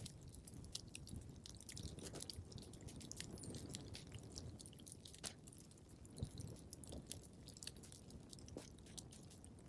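Wood fire crackling quietly in a fireplace: irregular sharp pops and snaps over a soft low rumble.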